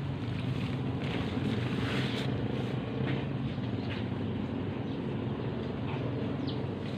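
Steady low rumble of a vehicle in motion, with a few faint clicks and rattles.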